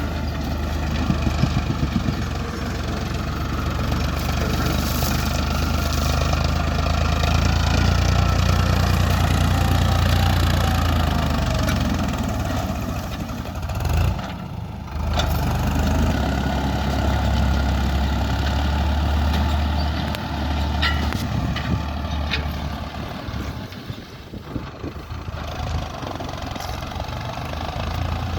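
Farmtrac 60 EPI tractor's diesel engine running steadily while pulling a 24-disc harrow. The sound drops away briefly about halfway through, then comes back, and is lower again for a while near the end.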